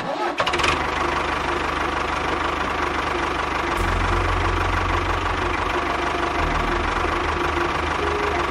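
A small engine running steadily, its low note stepping up in strength about four seconds in and shifting again a couple of seconds later.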